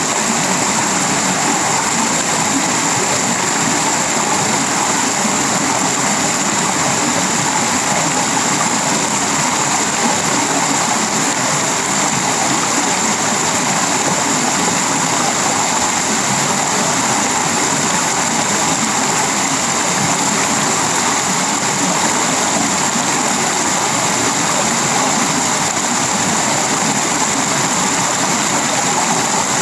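Heavy tropical rain falling steadily on a sheet-metal roof, wood and leaves: an even, unbroken wash of noise with a constant high-pitched hiss running through it.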